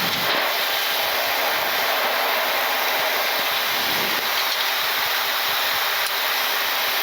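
Steady rushing noise inside a Boeing 737-800 flight deck in flight: airflow and air-conditioning noise during the descent.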